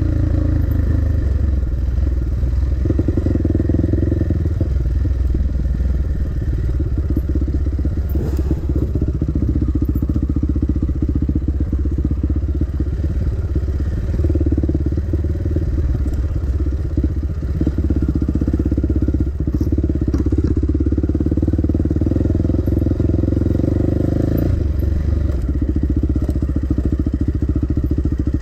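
Dirt bike engine running under changing throttle, the revs swelling and easing off in several long surges.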